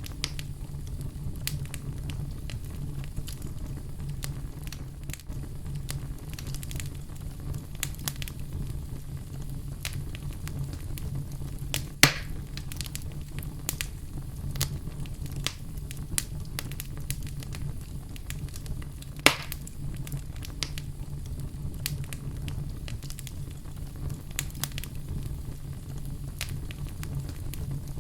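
Wood fire burning in a fireplace: a steady low rumble of flames with scattered crackles and sharp pops, two louder pops about twelve and nineteen seconds in.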